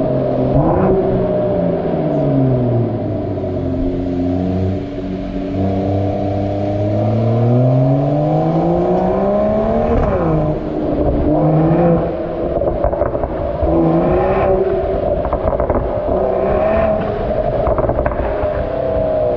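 Mercedes-AMG E53 4MATIC+ turbocharged inline-six engine and exhaust revving: the pitch falls, climbs steadily for about four seconds, then drops sharply about ten seconds in. It rises and falls again in the second half, with crackling pops from the exhaust.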